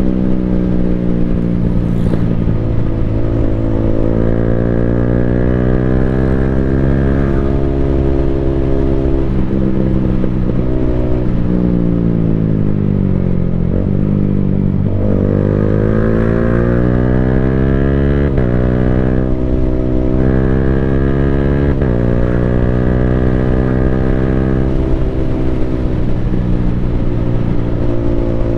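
Yamaha Sniper 155R's single-cylinder engine through an Akrapovic full exhaust system, heard while riding. The engine note climbs and steps through several quick-shifted gear changes, drops low as the rider eases off about halfway through, then climbs again under hard acceleration.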